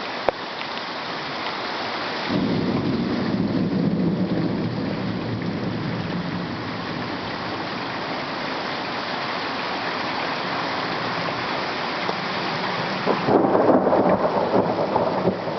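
Thunderstorm: heavy rain falling steadily, with thunder rumbling in about two seconds in and a louder peal of thunder near the end.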